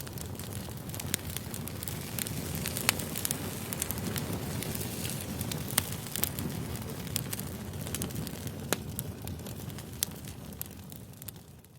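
Campfire crackling: a steady low rush of burning wood with sharp pops scattered irregularly throughout, fading out near the end.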